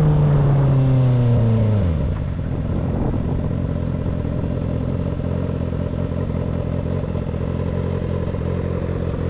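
2025 Kawasaki ZX-6R inline-four through a loud exhaust, engine pitch falling as the throttle is rolled off over the first two seconds, then settling to a steady, lumpy idle.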